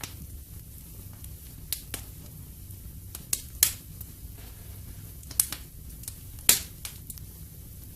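Wood fire in a fireplace crackling: a steady low rumble of flame broken by sharp irregular pops, the loudest about three and a half and six and a half seconds in.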